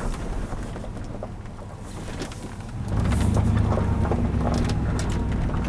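Chevrolet Tahoe engine and road noise heard from inside the cab while driving, a steady low rumble that grows louder about three seconds in.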